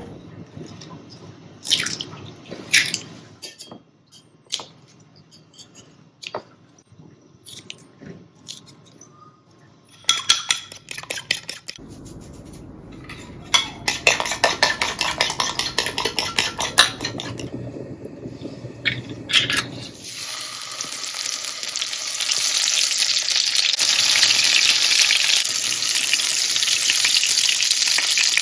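Kitchen work sounds: scattered clicks and knocks, then a run of quick taps of about five a second. About two-thirds of the way through, a steady sizzle of food frying in a pan starts and keeps going.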